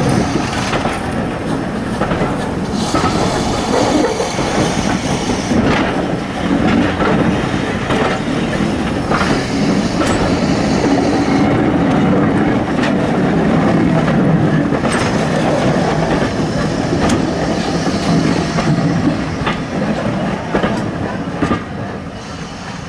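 Passenger coaches of a steam train rolling past close by, their wheels clattering steadily over the rail joints; the noise eases a little near the end as the last coach goes by.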